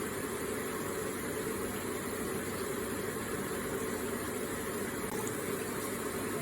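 Electric water feature running: water trickling and splashing in a steady, unbroken wash of sound.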